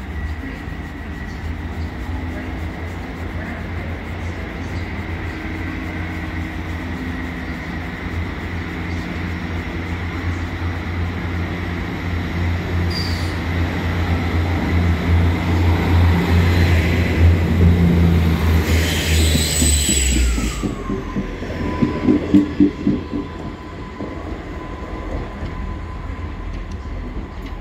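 A train passing: a diesel locomotive's engine rumble grows louder and drops away about twenty seconds in. Then come a short run of wheel clicks over rail joints and a high whine that falls in pitch and holds steady.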